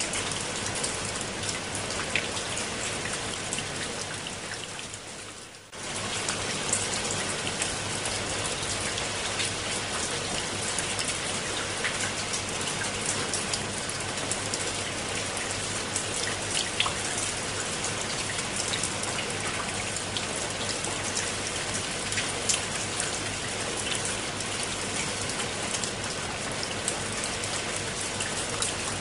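Steady rain falling on leaves and wet stone steps, a dense hiss scattered with the pats of individual drops. About five seconds in it briefly fades away, then comes back at once at full strength.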